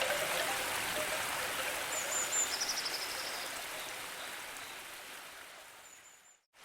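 Steady water ambience, like a stream or rain, with a few short high bird chirps and a trill about two seconds in and another chirp near the end. It fades out to silence just before the end.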